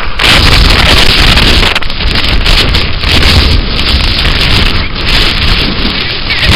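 Blizzard wind buffeting the camera microphone: loud, continuous rushing noise with heavy low rumble that eases briefly a few times.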